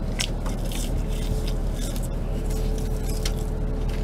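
Close chewing and mouth sounds of someone eating French fries, with small clicks and scrapes, over a steady low engine hum.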